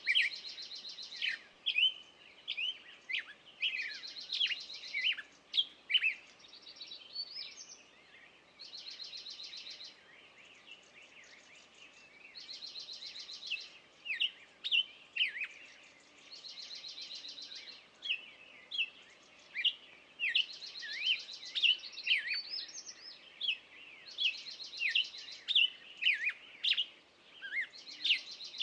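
Songbirds singing: one repeats a short, rapid trill about every four seconds, while others keep up many short, sharp notes that slide downward.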